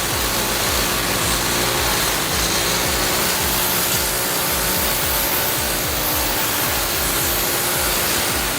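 Power saw cutting through wood, a steady rasping noise.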